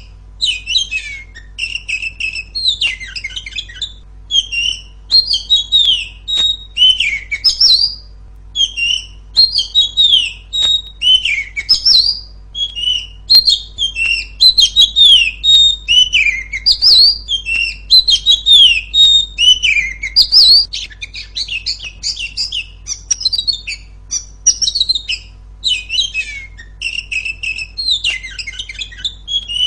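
Oriental magpie-robin singing loudly and without a break: a fast run of varied clear whistles, chirps and slurred notes.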